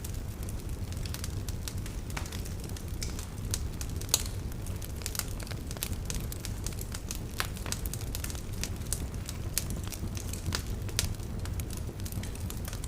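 Beach fire crackling and popping: irregular sharp pops, several a second, with one louder pop about four seconds in, over a steady low rumble.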